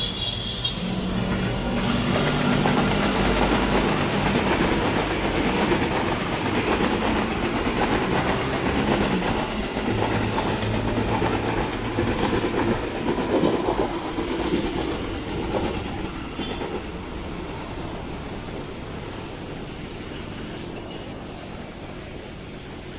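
KRL Commuterline electric commuter train passing below, its wheels clattering over the rails with a low hum underneath. It builds over the first few seconds, stays loud for about a dozen seconds, then fades away as the train moves off.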